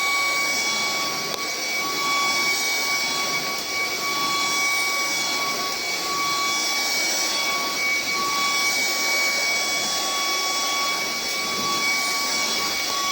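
Vacuum cleaner motor running steadily: a constant high whine over a rush of air.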